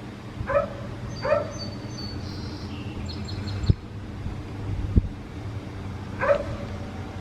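A dog barking three times, two barks close together near the start and one more about six seconds in, with a few short high chirps in between.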